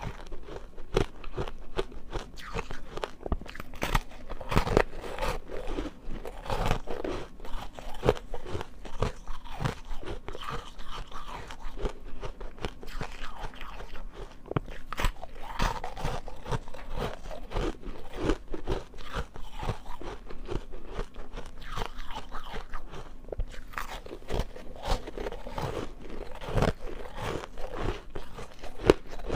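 Ice being bitten and chewed close to the microphone: a continual run of sharp, irregular crunches and cracks.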